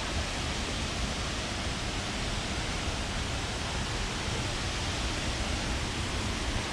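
Haew Suwat waterfall pouring into its pool: a steady, even rush of falling water.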